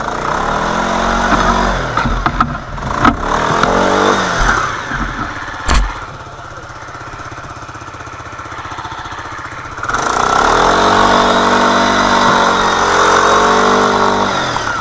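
ATV engine revving hard, its pitch rising and falling, in two long spells with a quieter lull between, and a few sharp knocks during the first spell.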